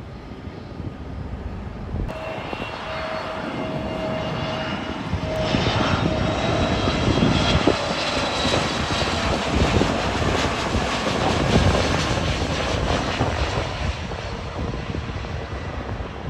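Jet airliner's engines passing by: a roar with a high whine that swells over several seconds, stays loudest for a while, then eases slightly.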